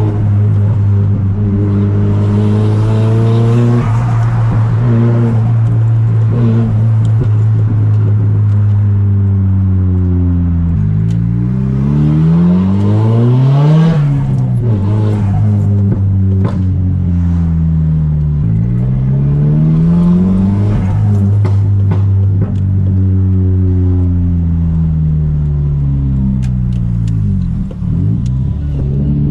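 Straight-piped Nissan Silvia S15's turbocharged SR20DET four-cylinder running on the move. The revs hold steady for about ten seconds, then rise and fall twice. They dip briefly near the end and climb again.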